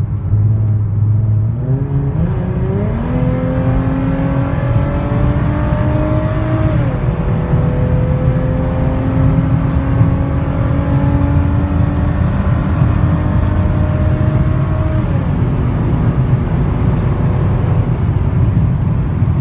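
Hyundai Genesis engine pulling hard under heavy throttle, its pitch climbing from a couple of seconds in, dropping at a gear change about seven seconds in, then climbing slowly for about eight more seconds before falling back as the throttle eases and it settles to a steady cruise.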